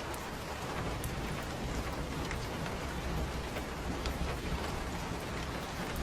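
Steady rain falling on surfaces: a continuous hiss with scattered sharp drop ticks and a low rumble underneath.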